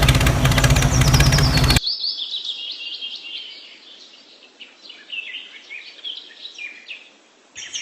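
An engine running steadily with a low hum, which cuts off abruptly about two seconds in. After it come many short, high bird chirps.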